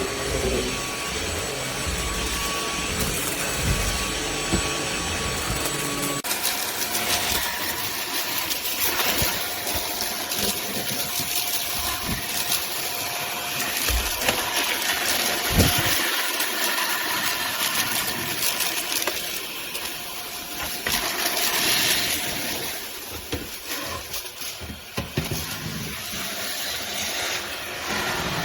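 Cordless stick vacuum running, a steady motor whine over the rush of suction, whose pitch shifts about six seconds in.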